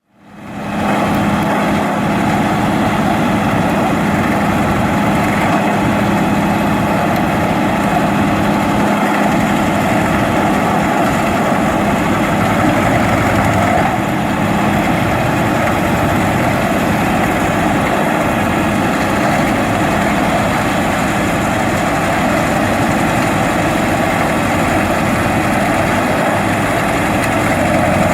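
Fendt tractor engine running steadily while driving a Seppi Multiforst forestry mulcher, a dense continuous machine noise. A steady low hum within it fades out about halfway through.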